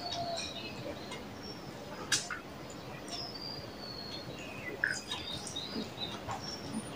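Small birds chirping, short high whistles coming and going. There are two sharp clicks, about two and five seconds in.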